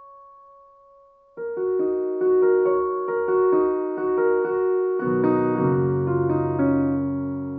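Solo piano playing. A single held note gives way, about a second and a half in, to repeated chords about three a second; deep bass notes join about five seconds in and ring on, fading gently.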